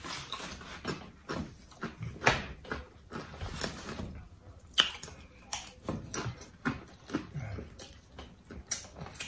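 Close-up chewing: chips crunching in the mouth with irregular crisp crackles and wet mouth sounds.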